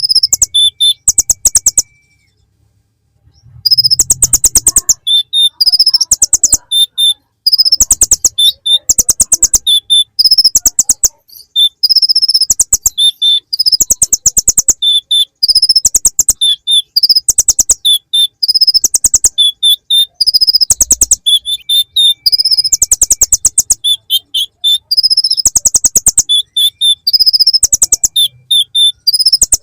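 Kolibri ninja (konin), a sunbird, singing loudly in repeated very high-pitched, rapid trilled phrases, its song filled with bar-winged prinia (ciblek) imitations. There is a short pause about two seconds in.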